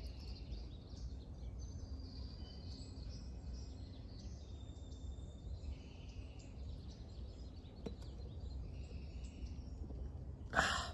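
Small birds chirping on and off over a steady low outdoor rumble. Near the end there is one short, louder rush of noise.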